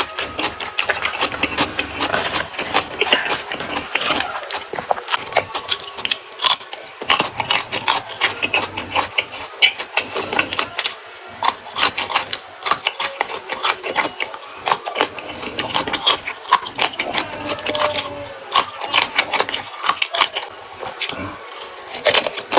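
Close-up chewing and crunching of raw vegetables: a fast, irregular run of crisp crunches and wet clicks.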